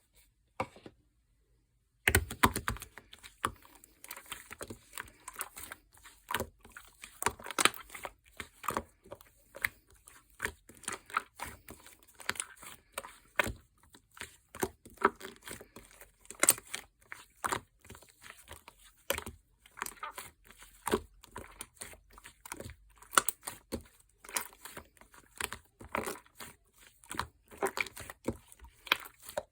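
Hands squishing, poking and stretching a soft, smooth clay slime, giving a dense, irregular run of small sticky clicks and pops that starts about two seconds in.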